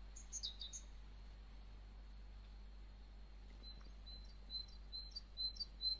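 Small bird chirping: a few quick high chirps about half a second in, then a run of about six short, evenly spaced chirps, about two a second, in the second half, over a low steady rumble.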